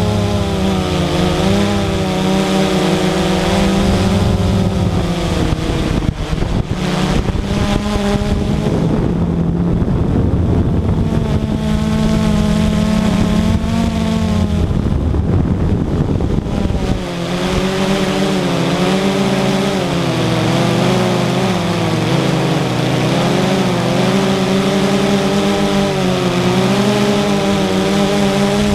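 Radio-controlled model aircraft's engine running in flight, its pitch rising and falling as it manoeuvres, with a noisier, wind-like stretch midway.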